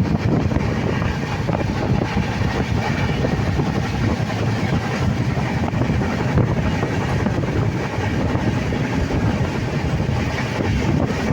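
Train running, a steady rumble without pauses or clear rhythm.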